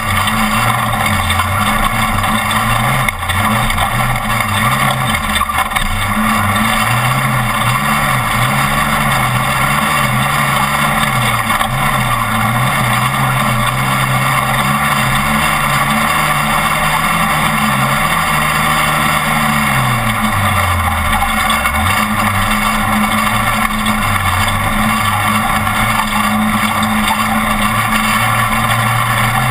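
Off-road race truck's engine running hard, its note rising and falling with the throttle, dropping about twenty seconds in before climbing again, over a steady loud rushing noise.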